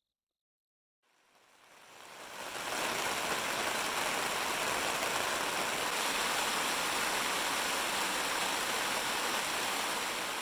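Steady rain falling, fading in after about a second of silence.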